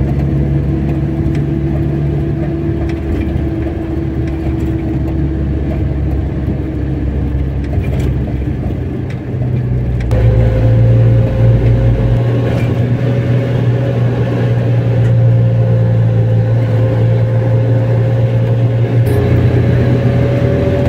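Car engine and road noise heard while driving: a steady drone with a slowly drifting engine tone that shifts about ten seconds in.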